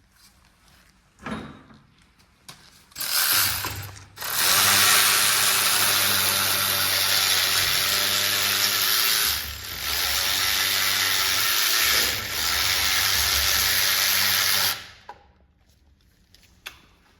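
A power tool running: a short burst about three seconds in, then a long steady run of about ten seconds with two brief dips before it stops. A single knock comes about a second in.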